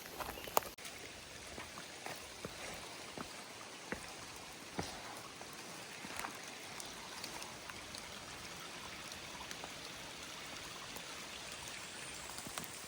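Light rain falling, a steady hiss with scattered drops tapping, and one sharp tap about half a second in.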